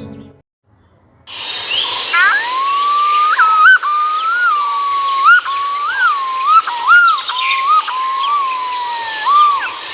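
Yellow-footed green pigeon calling: one long, mellow, warbling whistle that wavers up and down in pitch, starting about a second in. A steady high-pitched whine sits behind it.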